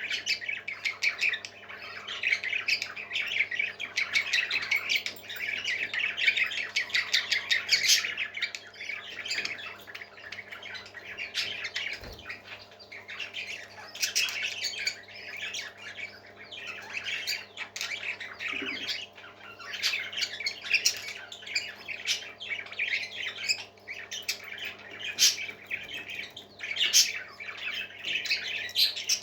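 Baby parrots squawking in long runs of rapid, rasping calls with short pauses between, over a steady low hum.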